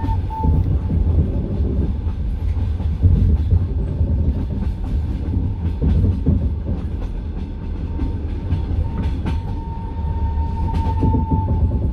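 Passenger train carriage rolling along the track, heard from inside: a steady low rumble with irregular clacks of the wheels over rail joints. A thin high whine sounds briefly at the start and again from about nine seconds in until near the end.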